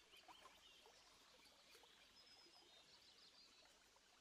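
Near silence with faint, repeated high chirps of birds in the background.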